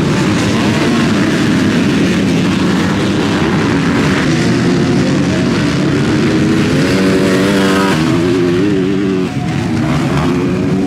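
Several motocross bikes racing, their engines revving up and down in pitch as the riders work the throttle and gears, with one engine climbing clearly about seven seconds in.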